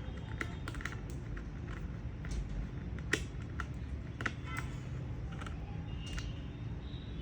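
Scattered light clicks and taps of small laptop parts being handled and fitted during reassembly, the sharpest about three and four seconds in, over a steady low hum.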